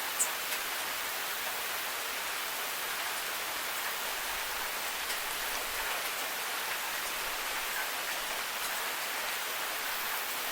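Steady rain falling, an even hiss with a few sharp drip ticks, the loudest just after the start.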